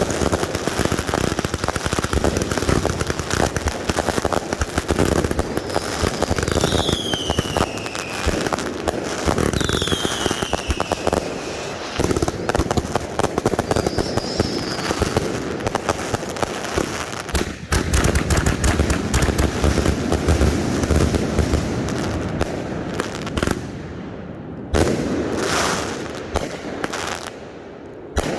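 Consumer firework cakes firing in a finale: a dense, continuous barrage of rapid bangs and crackle, with a couple of falling whistling tones about a quarter of the way in. Near the end it thins out to a few separate reports.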